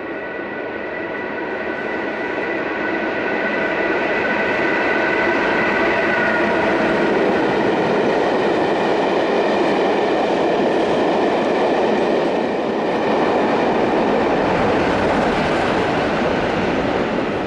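A train running past at close range. Its noise builds over the first few seconds and then holds steady, with a high whine that fades about six seconds in.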